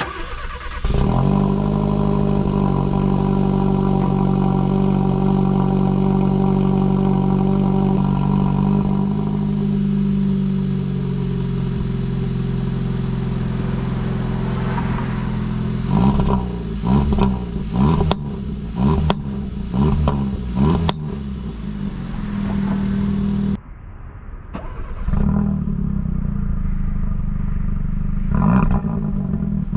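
2017 Hyundai Elantra Sport's 1.6-litre turbo four-cylinder, its exhaust resonator replaced by a straight-through pipe, cold-starting about a second in and running at a steady high idle that settles lower. It is then revved in a series of throttle blips with sharp exhaust pops. After an abrupt cut, more revving follows.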